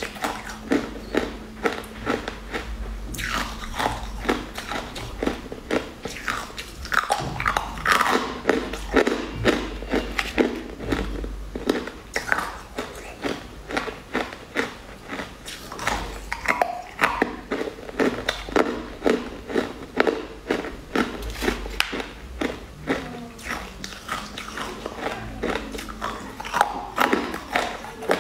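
Close-up chewing of sugar-coated jelly candy cubes: a steady run of crisp, crunchy bites and mouth clicks, about two to three chews a second.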